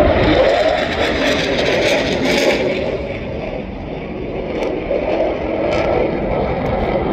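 Aircraft engine noise, loud and steady, easing off a little midway and building again near the end.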